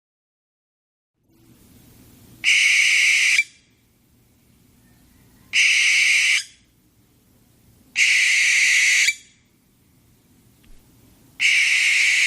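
Owl calling: four long calls of about a second each, spaced roughly three seconds apart.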